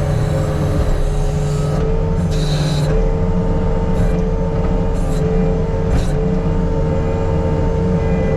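Diesel engine of earthmoving equipment running steadily under work, with a constant whine. A few short hissing or scraping bursts come about two, four, five and six seconds in.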